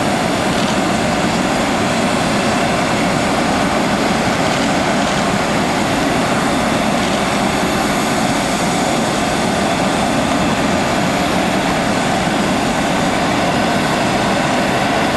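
Private jet's engines running at a steady level: a constant, even rush of noise with faint high steady tones over it.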